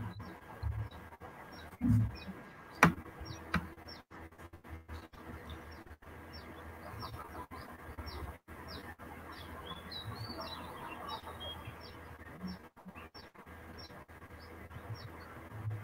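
Small birds chirping: short high chirps repeated about twice a second, with a brief warbling run about ten seconds in. A dull knock about two seconds in and a sharp click just after it are the loudest sounds.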